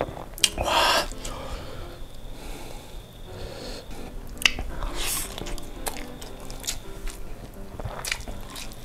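Close-miked eating sounds: chewing and wet mouth clicks from a mouthful of rice and sausage in oily sambal eaten by hand, with a loud breathy noise about half a second in and another around five seconds. Soft background music underneath.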